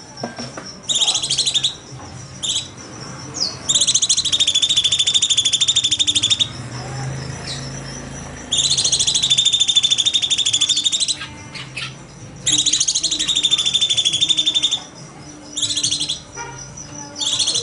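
Cucak cungkok songbird singing: rapid, high-pitched rattling trills in bursts of about two seconds, repeated four times, with short calls in between.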